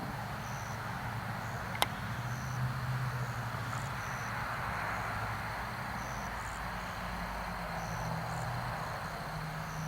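Night insects chirping in short high chirps about once a second over a steady hiss and a low hum, with one sharp click about two seconds in.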